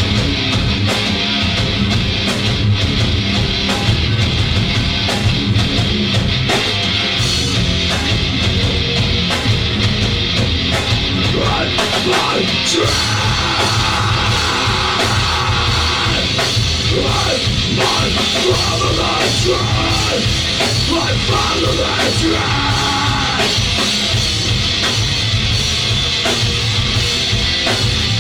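A rock band playing live, heavy drums and distorted guitars, mostly instrumental with some shouted vocals.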